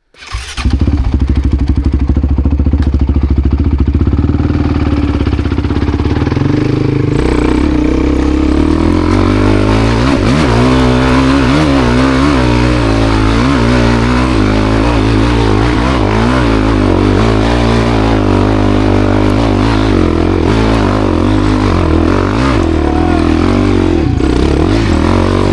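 Honda CRF300L's single-cylinder four-stroke engine running hard, held at a steady note for the first several seconds, then its revs rising and falling over and over as it works up a climb.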